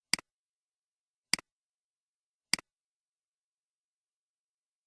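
Computer mouse clicked three times, evenly about 1.2 seconds apart, each click a sharp tick followed at once by a softer one as the button is pressed and released, with silence between.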